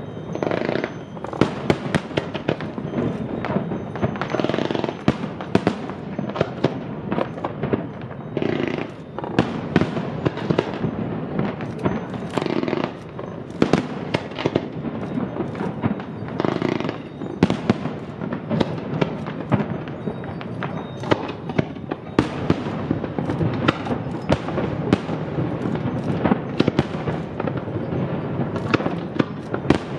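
Aerial fireworks display: shells bursting one after another in rapid, unbroken succession, a dense stream of sharp bangs and crackles.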